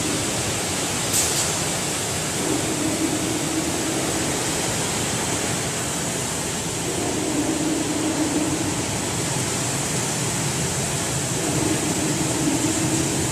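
Automatic screen washout booth running: a steady hiss of water jets spraying. A low hum rises and falls away about every four to five seconds, with one click about a second in.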